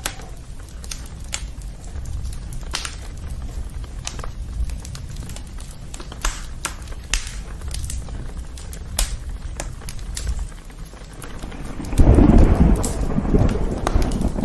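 Campfire crackling: sharp, irregular pops over a low steady rumble. Near the end a louder rushing swell comes in.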